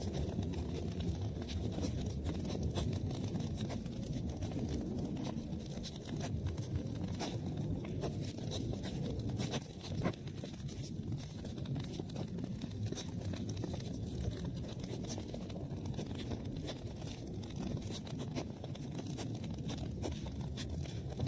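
Fire burning in a fireplace: a steady low rush of flames with many small, sharp crackles and pops.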